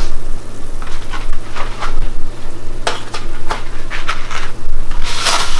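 Kitchen clatter of utensils and cookware: a string of light clicks and knocks over a steady low hum, with a short burst of hiss near the end.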